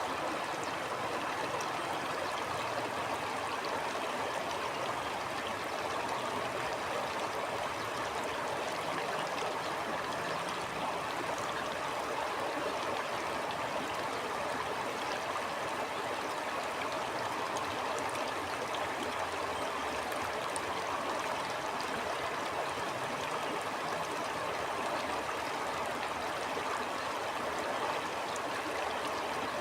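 Stream flowing steadily: a continuous, even rush of running water.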